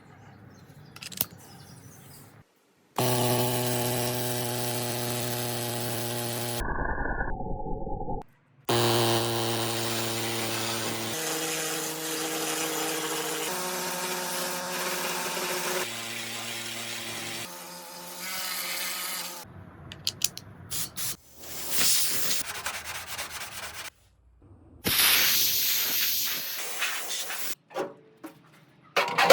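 Electric power tools running in a string of short clips cut together: a steady motor whine whose pitch jumps to a new level every few seconds, with scraping and rubbing stretches near the end.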